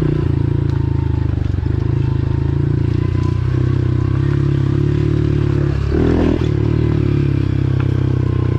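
A 110cc single-cylinder pit bike engine running steadily while the bike is ridden, its pitch holding fairly even, with a brief dip and change in the engine note about six seconds in.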